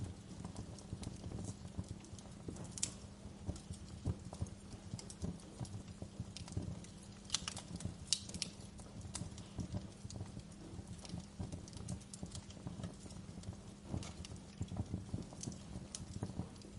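Fire crackling, with irregular small pops over a steady low rumble of flame; a few sharper pops stand out about three seconds in and again around seven to eight seconds.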